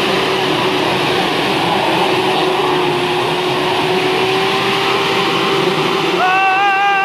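Vehicle engines running hard under load with a steady, noisy rush and a held low drone, as the stuck truck is being pulled out of the mud. About six seconds in, a loud, wavering drawn-out shout rises over the engine noise.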